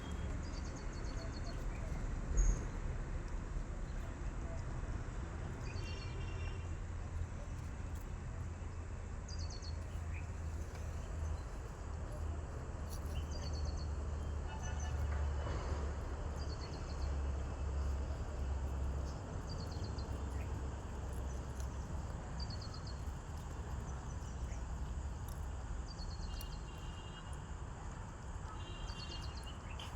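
A bird chirping again and again, short falling calls every couple of seconds, over a steady low hum and background noise. There is one brief thump a couple of seconds in.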